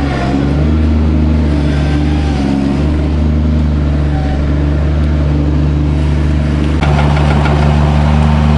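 Small digger's engine running steadily under load while digging dirt, its pitch dipping briefly about two seconds in. Near seven seconds in it gets louder, with a rattle of clicks over the engine.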